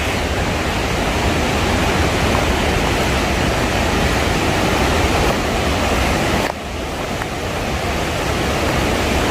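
Steady rush of Mardalsfossen waterfall's falling water, a loud even noise with a deep low rumble. The level drops suddenly about six and a half seconds in, then slowly builds again.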